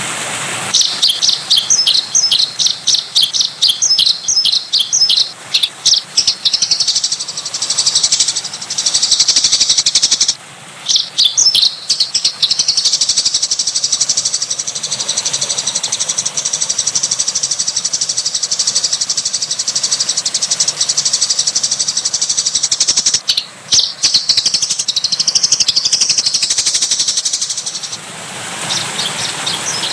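Songbird singing fast, high chirping trills almost without pause, with short breaks about a third of the way in and again around two-thirds. A steady rush of running water comes back near the end when the singing stops.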